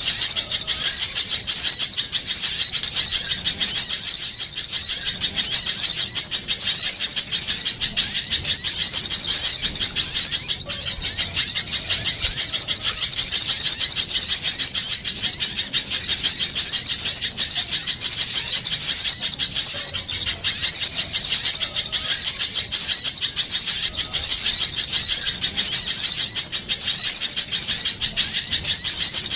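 Dense, unbroken chatter of many small songbirds calling at once: crowded high-pitched chirps and quick twittering notes. This is a small-bird lure recording ("suara pikat burung kecil ribut") played to draw small birds in.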